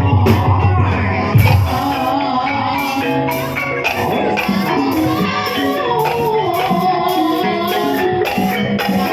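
Live ebeg (kuda lumping) accompaniment music: a gamelan ensemble playing a melody of struck metal or bamboo keys over sharp percussion strikes about twice a second, with a voice singing over it. A heavy low tone drops out about a second and a half in.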